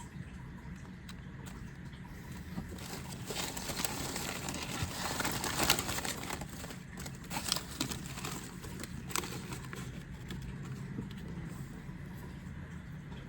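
Foil Yu-Gi-Oh! booster pack crinkling and cards being handled: a burst of rustling through the middle with a few sharp clicks, over a steady low hum.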